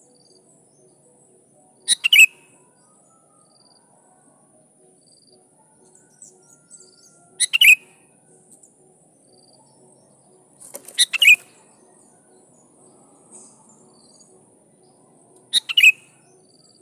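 Sooty-headed bulbul (kutilang) calling in short, loud phrases of a few quick notes, four times a few seconds apart, over a steady faint high insect buzz.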